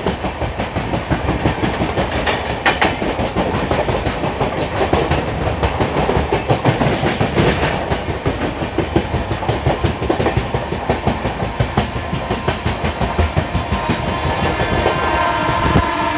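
Passenger train running along the track, its steel wheels clattering over the rails in a dense, uneven rhythm.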